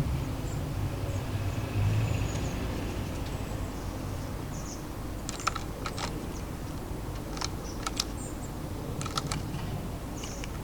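Birds pecking and tapping at a garden bird feeder: irregular sharp clicks, some in quick twos and threes, over a steady low rumble of distant city traffic, with a few faint high chirps.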